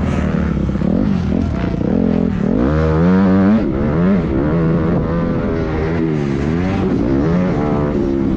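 Several motocross dirt bike engines revving, their pitch rising and falling repeatedly with throttle and gear changes over a steady drone; loudest about three seconds in.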